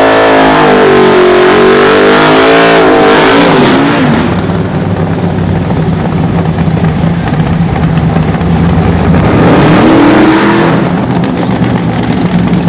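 Very loud race car with an all-aluminium 408 cubic inch small-block Chevrolet V8, revved hard with its pitch swinging up and down for about four seconds, then running at a lower, steadier note before one more rising rev near ten seconds in.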